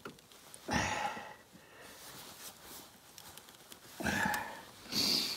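A person's short, heavy breaths: three noisy exhalations, one about a second in and two close together near the end.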